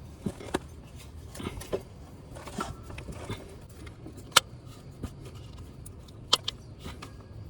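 Scattered light metallic clicks and knocks of hand tools and engine parts at irregular intervals, one sharper knock about four and a half seconds in, as the serpentine belt is refitted. A faint steady low hum sits underneath.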